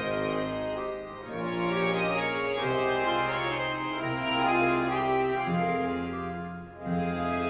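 Accordion orchestra playing, held chords under a moving melody, with two short breaks between phrases, about a second in and again near the end.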